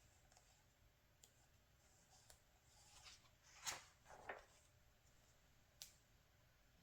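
Magazine pages being turned by hand: paper rustling that rises into a swish a little past halfway, a second shorter rustle just after, and a few faint paper ticks, the last sharper one near the end.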